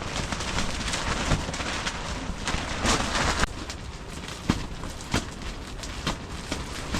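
Strong gusting wind buffeting the microphone and a car-camping tent, with sharp snaps of tent fabric several times; the loudest gust comes about three seconds in.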